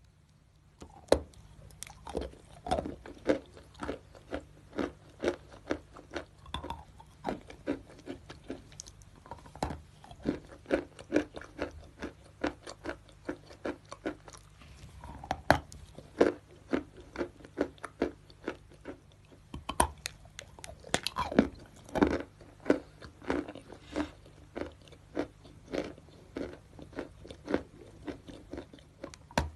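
A person biting and chewing natural chalk: a run of sharp, dry crunches, about two a second, starting about a second in, with a few louder bites among them.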